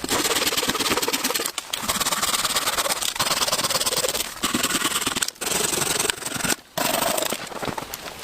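Rough rubbing or scraping strokes, each lasting a second or more, broken by brief pauses.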